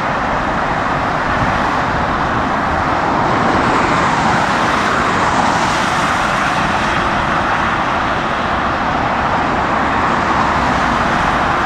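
Steady roar of a jet airliner's engines that swells and eases over several seconds, with strong wind on the microphone.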